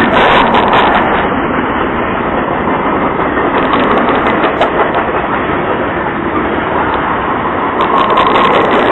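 Train rolling past close by: a steady, loud rumble of wheels on the rails with scattered clicks.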